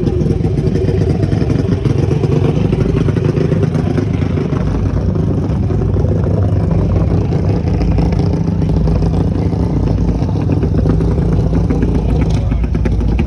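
Small-block mini bike engine running loud at a fairly steady pitch, with a light clattery ticking over it.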